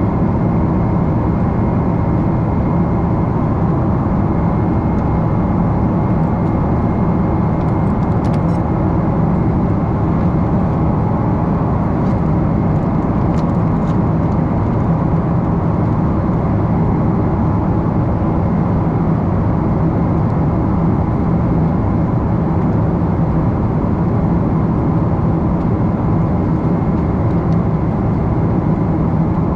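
Steady cabin roar of a twin-engine Boeing 777-300 in flight, heard from a window seat: engine and airflow noise with a faint steady whine. A few faint clicks come through about a third and halfway through.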